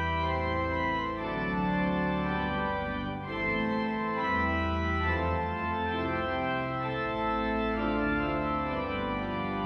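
Pipe organ playing full, sustained chords over deep bass pedal notes.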